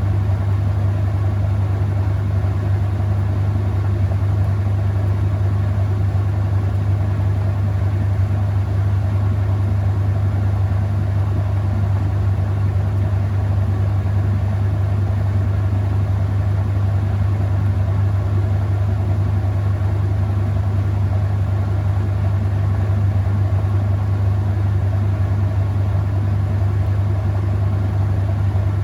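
Whirlpool top-load washing machine running with a steady, loud low hum, even and unbroken, with no agitator strokes.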